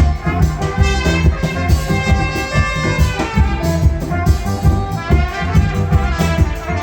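Live band playing an instrumental passage without vocals: a steady drum beat and a deep bass line under a sustained melody line.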